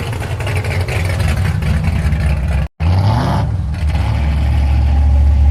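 Motor vehicle engine running with a deep rumble. About halfway through the sound cuts off for a moment, then the engine revs up and settles into a louder, steady low drone.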